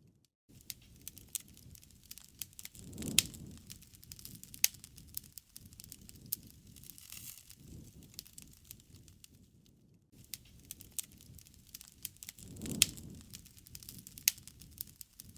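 Wood fire crackling with frequent sharp pops. The low rush of the flames swells twice, about three seconds in and again near the end, with the loudest pops coming at those swells.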